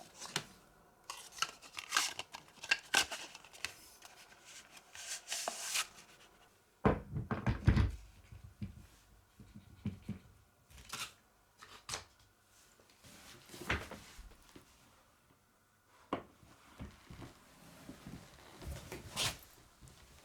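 Hands-on work on an office chair during a gas-cylinder swap: irregular rustling, clicks and knocks of parts and packaging being handled, with a heavier thump about seven seconds in.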